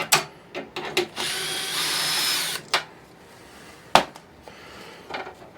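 Power drill running for about a second and a half, driving a screw to fasten the blower's ground wire back on, with sharp clicks and knocks of handling before and after, one loud click near the end.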